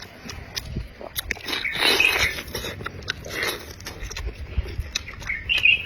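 Close-miked chewing and biting of food, with many short wet clicks and a couple of louder smacking bursts about two and three and a half seconds in.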